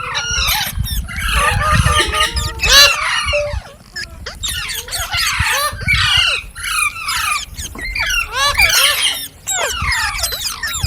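Several green parrots squawking and chattering at once: rapid, overlapping shrill calls that sweep quickly up and down in pitch. A low rumble runs under them for the first few seconds.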